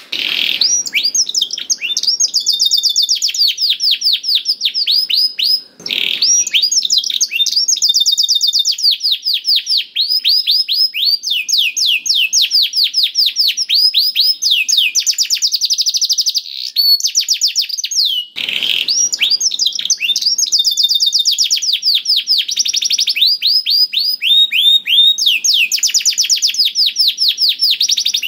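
Domestic canary singing a long, continuous song of fast trills, each a rapid run of repeated high notes, one run after another almost without pause. Short breaks come about 6 and 18 seconds in.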